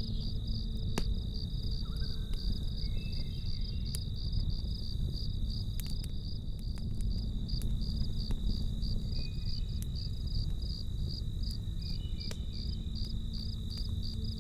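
Crickets chirping in a steady, even pulse, about three chirps a second, over a low rumble, with scattered sharp campfire crackles and pops.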